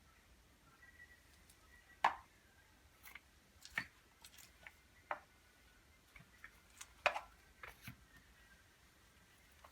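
Small hard parts being handled during hammer drill repair: a series of sharp clicks and light knocks, the two loudest about two and seven seconds in.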